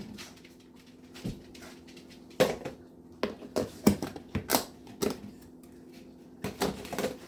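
Dishes clattering and scraping: irregular clicks and knocks that come in a busy cluster from about two and a half seconds in, and again near the end.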